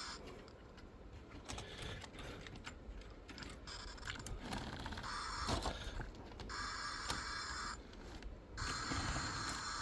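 Small mechanical clicks and scrapes from model train cars and couplers on the layout's track, as the heavy train is shifted.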